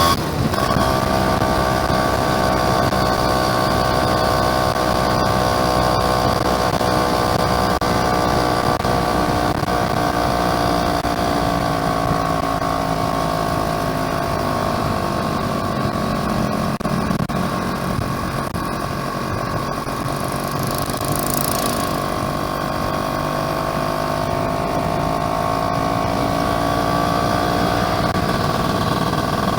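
Yamaha F1ZR two-stroke single-cylinder engine running while the motorcycle is ridden, its pitch slowly easing down through the middle and rising again toward the end.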